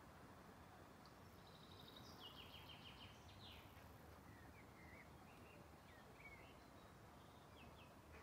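Faint outdoor ambience: a low steady hiss with small birds chirping. A quick trill starts about a second in, followed by scattered short chirps.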